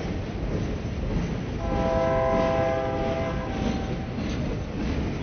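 A Norfolk Southern RoadRailer train of Triple Crown trailers rolling past with a steady rumble, while a locomotive's multi-note chime horn sounds one chord of about two seconds, starting about one and a half seconds in.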